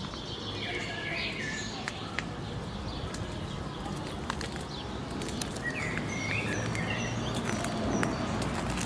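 Small birds chirping and calling over a steady low hum of city background. About six seconds in comes a quick run of high, thin notes, about four a second, with a few sharp faint clicks scattered through.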